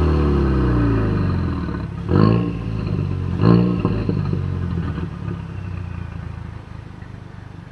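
Ford Mustang EcoBoost's turbocharged four-cylinder engine through a Flowmaster Outlaw axle-back exhaust, settling low after coming off the throttle, then two short rev blips about two and three and a half seconds in, then running steadily at a low note that grows fainter.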